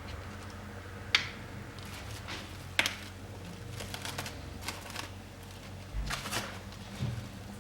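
A series of sharp, irregular clicks and taps, the loudest about a second in and another near three seconds, over a steady low hum.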